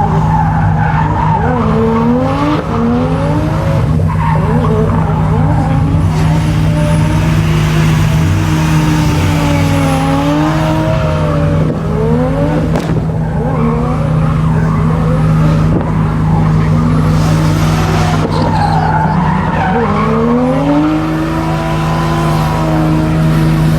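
Toyota Supra Mk4's inline-six engine revving up and down repeatedly while drifting, with tyre squeal, over a steady low hum.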